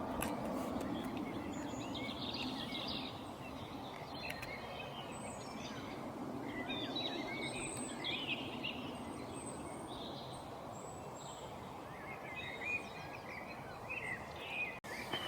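Many short bird chirps and calls scattered over a steady background hiss of outdoor ambient noise.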